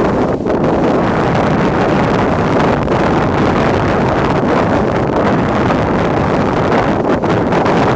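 Strong wind buffeting the microphone: a loud, steady rushing with short dips about half a second in and near the end.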